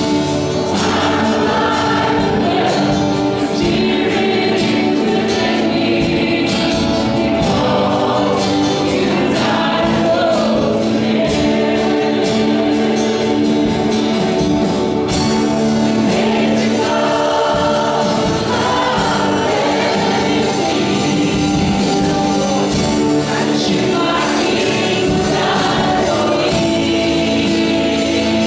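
A church worship team singing a gospel-style worship song with a band, voices together over sustained chords, with light tambourine-like percussion.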